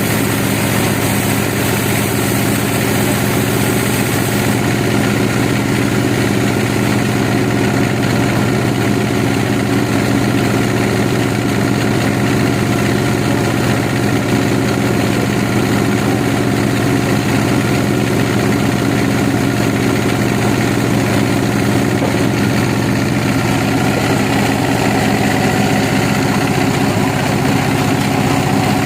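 An engine running steadily at idle, an even, unchanging drone.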